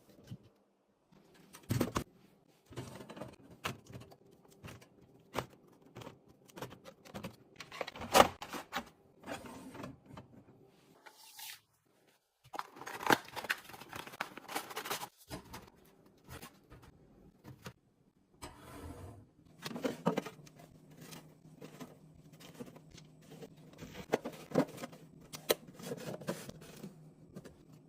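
Handling sounds of a fridge being organized: an irregular series of clicks, knocks and scrapes as containers and items are picked up and set down, the sharpest knock about eight seconds in. A steady low hum comes in about two-thirds of the way through.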